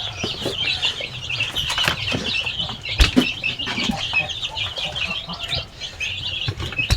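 A brood of chicks peeping continuously in a dense high chorus, with a few low clucks from the mother hen and scattered scratches and taps, one sharp tap about three seconds in.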